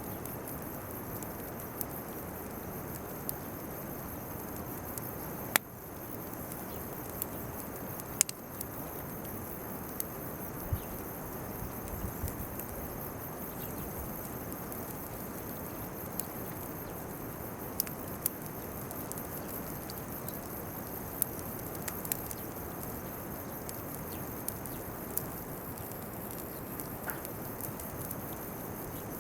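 Bonfire of weeds and chestnut burs burning, a steady hiss with scattered sharp pops and crackles, the loudest two coming about six and eight seconds in. Insects chirr steadily in the background.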